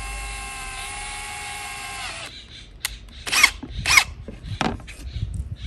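Electric drill running steadily at speed while boring drainage holes, then stopping about two seconds in. Two short chirps and a few sharp clicks follow.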